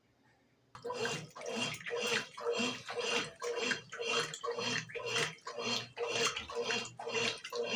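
Brastemp BWG11 washing machine agitating a load of sheets and towels in water, a rhythmic swishing of about two strokes a second that starts suddenly a little under a second in.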